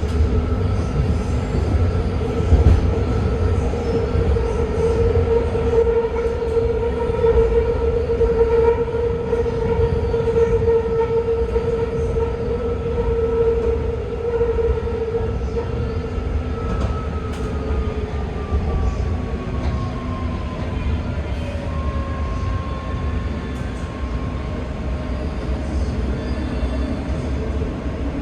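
BART train running on the rails: a steady low rumble from wheels and track, with the electric propulsion whine over it. About two-thirds of the way through, the whine glides down in pitch.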